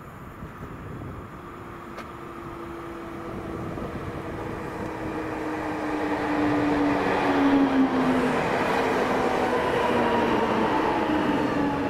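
Train approaching along the line, its rumble growing steadily louder for about seven seconds and then holding, with a whine that slowly falls in pitch.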